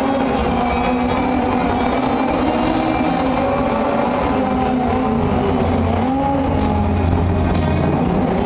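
Stunt cars' engines revving as the cars spin and drift across the arena, with rock music playing underneath through the loudspeakers.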